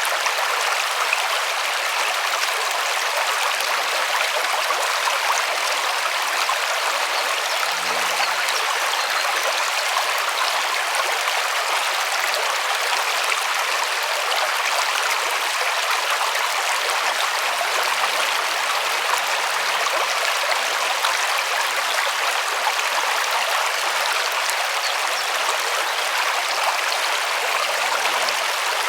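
River flowing: a steady, even rush of water that holds unchanged throughout.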